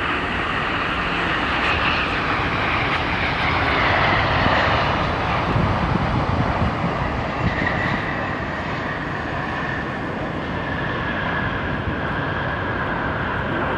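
Jet airliner's turbofan engines passing close by: a steady broad rush of engine noise with a whine that slides gradually down in pitch as the aircraft goes by. It is loudest about a third of the way in.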